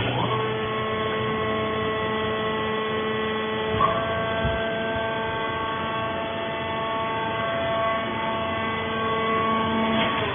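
Fiber press baler's hydraulic power unit running with a steady multi-tone whining hum. It starts abruptly, shifts tone slightly with a brief knock about four seconds in, and cuts off near the end.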